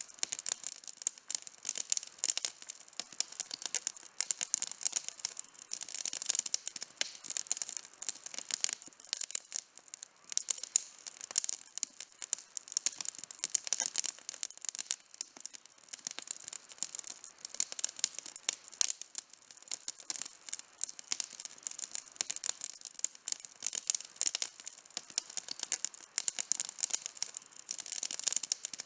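Wood campfire burning, with dense, constant crackling and sharp pops of burning wood and little low rumble.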